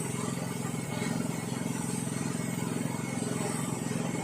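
Yanmar Je-80HE snowblower engine running steadily, after a carburetor replacement.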